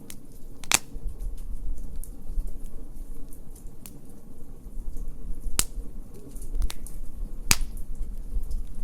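Wood fire crackling, with scattered small ticks and three loud sharp pops, near the start, past halfway and near the end, over a low rumble.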